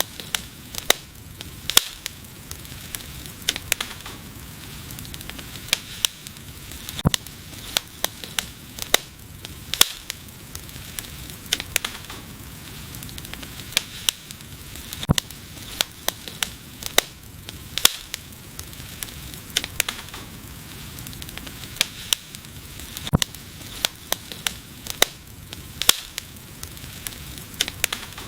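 Wood fire crackling: irregular sharp pops and snaps over a steady low rush of burning flames.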